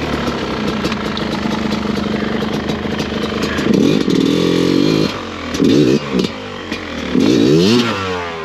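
Enduro motorcycle engine running and revved in three short surges, the pitch climbing and falling each time, as the bike is ridden to get out of a hole.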